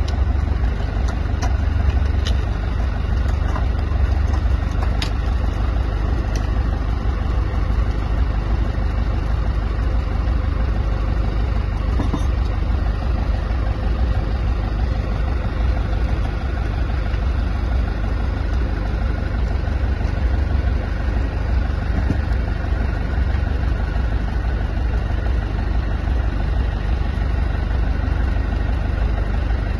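An engine running steadily, with a deep, even rumble and a few sharp clicks in the first few seconds.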